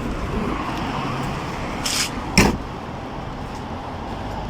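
Steady low background rumble, with a short scrape about two seconds in and a sharp tap or knock just after it.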